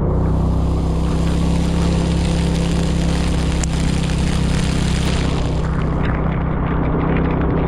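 Scooter engine running steadily under way, with a loud hiss over it that fades about six seconds in.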